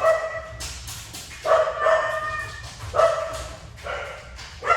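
A pet animal crying out four times, drawn-out high-pitched cries about a second and a half apart.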